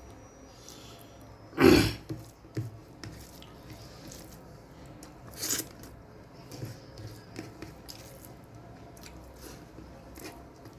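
A person eating a meal: soft chewing and mouth noises, with a loud short noise about two seconds in and a smaller one about five and a half seconds in.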